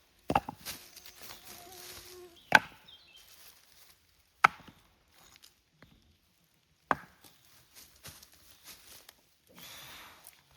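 Four sharp snaps or knocks, irregularly spaced a couple of seconds apart, over a quiet background.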